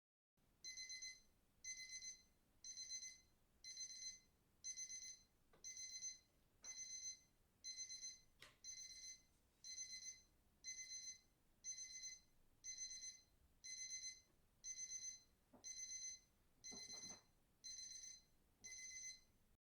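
High-pitched electronic alarm beeping steadily, about one beep a second, each beep a shrill chord of a few tones.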